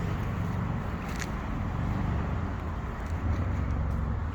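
Steady low outdoor rumble, with one short click about a second in.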